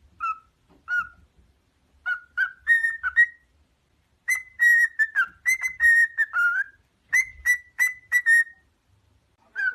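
A bird giving a series of short whistled notes, some held level and some sliding down, in quick clusters with brief pauses between them.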